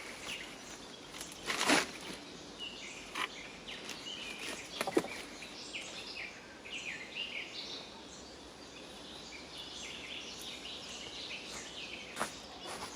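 Quiet forest ambience with small birds chirping in short, high, falling calls, clustered in the middle, and a few sharp clicks or snaps, the loudest about two and five seconds in.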